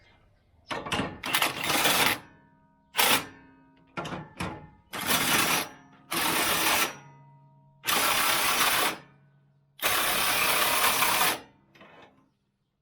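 A tool tightening nuts on a ride-on mower's deck bar, in seven bursts of about half a second to a second and a half each, with faint metallic ringing in the gaps.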